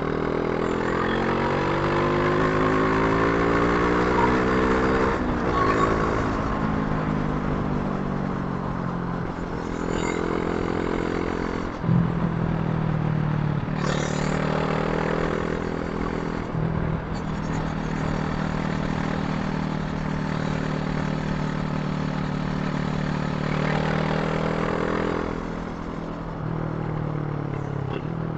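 Brixton Crossfire 500's parallel-twin engine under way, revving up through the gears. Its pitch climbs and drops sharply at upshifts about five seconds in and again around twelve to fourteen seconds, holds steady at a cruise, then falls as the throttle eases off near the end.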